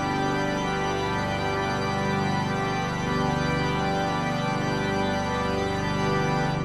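Pipe organ playing loud, full sustained chords that change every second or so.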